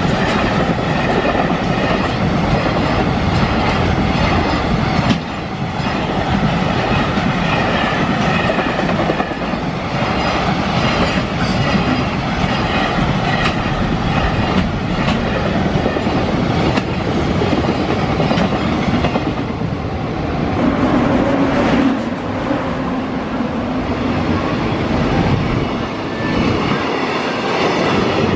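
Freight train passing close by at speed, a loud steady rush of wheels on rail with a regular clickety-clack over the rail joints.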